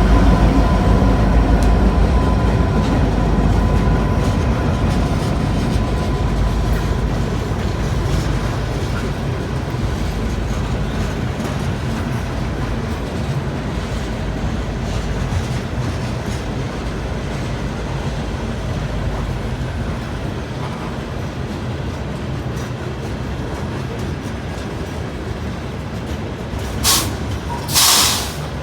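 Train rolling past with a heavy low rumble that slowly fades, and a thin steady whine over the first several seconds. Near the end there are two short, loud hissing bursts.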